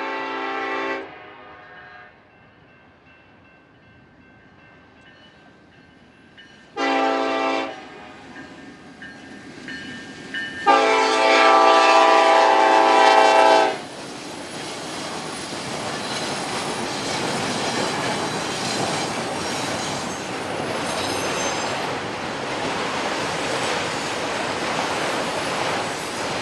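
Union Pacific freight locomotive's air horn sounding: a blast ending about a second in, a short blast around seven seconds, and a louder blast of about three seconds. Then the train rolls past with steady wheel-on-rail noise.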